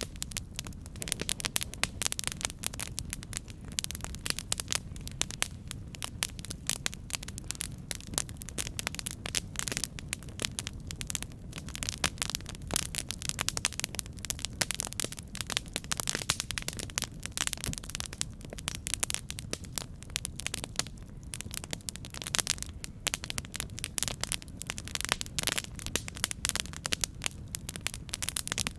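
Campfire crackling: a dense, irregular stream of small pops and snaps from burning wood over a low, steady rumble.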